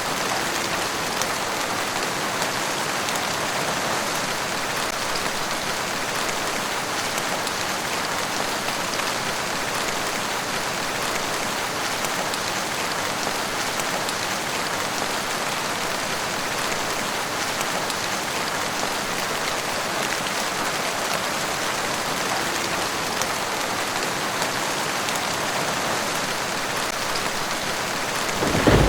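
Steady rainfall, a dense even patter of raindrops that holds unchanged throughout. Right at the end a low rumble of thunder breaks in.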